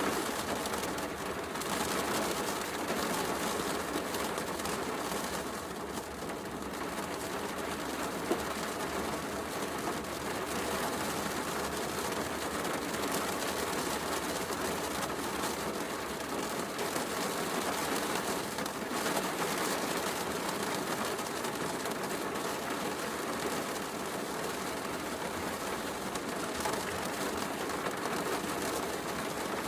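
Heavy rain falling steadily, mixed with a fireplace crackling.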